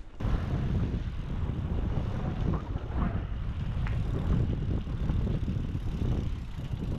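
Wind buffeting the microphone of a camera riding along on a bicycle, over a steady low rumble of tyres on the road, with a few faint brief rattles.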